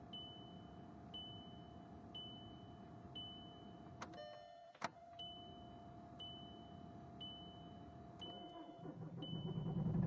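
Inside a 2006 VW Jetta TDI with the ignition on: a short high dashboard warning chime repeating about once a second over a steady electrical hum. About four seconds in, two sharp clicks, typical of the key being turned off and back on to cycle the glow plugs, briefly cut the hum. Near the end, a louder low whooshing noise builds.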